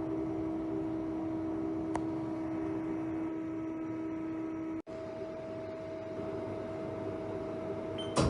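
Steady machine hum from a Haas ST-40 CNC lathe, a single held pitch. About five seconds in it cuts out for an instant and comes back as a steady tone at a different pitch.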